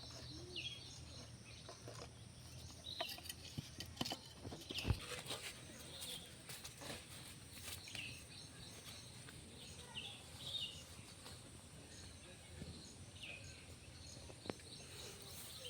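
Small birds chirping in short calls now and then, with a few faint clicks or knocks a few seconds in.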